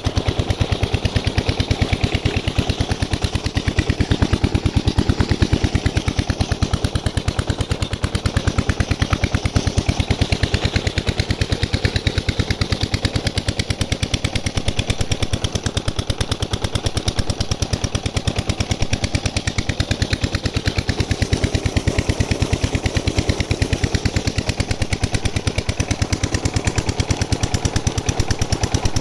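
Diesel engine driving a tubewell water pump, running steadily with a rapid, even knock from its firing strokes.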